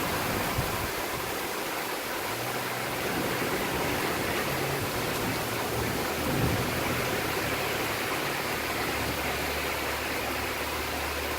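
Heavy thunderstorm rain pouring down in a steady, even hiss, with a faint low hum underneath.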